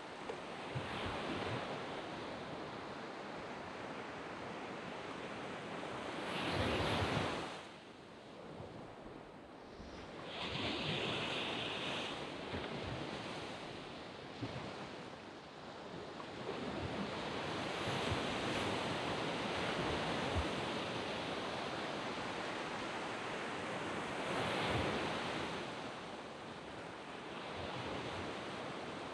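Waves breaking and washing up a sand beach, a steady surf hiss that swells and ebbs, with the biggest surge about seven seconds in.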